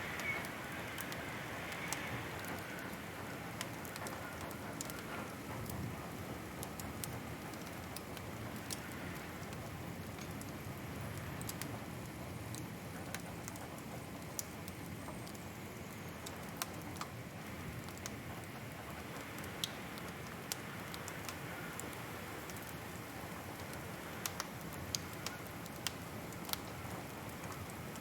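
Wood fire crackling, with many scattered sharp pops over a steady soft hiss.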